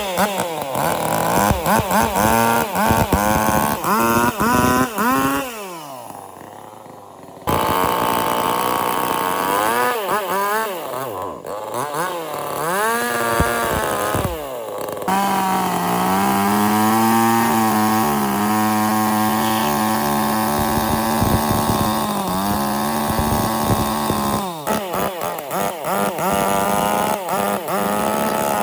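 Chainsaw engine revving up and down again and again. It drops away briefly about six seconds in, holds a steady pitch for several seconds in the middle, then revs up and down again near the end.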